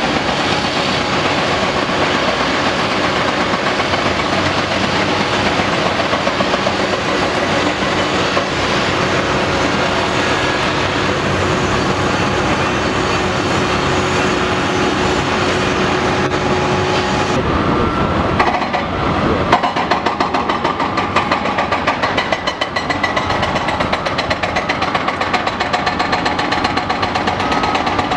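Hydraulic hammer on a Cat 330DL excavator pounding in rapid, continuous blows over the running diesel engine. About two-thirds of the way through the sound changes, and the blows rise and fall more unevenly in level.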